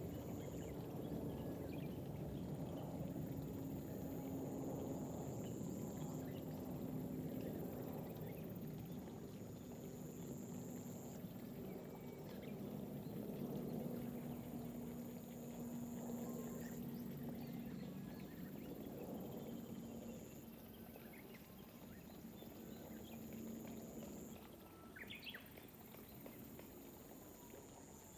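Gentle rain falling over rice paddies, heard as a soft steady patter. Through it a high, thin insect trill comes and goes every few seconds, and a bird gives a few brief chirps near the end.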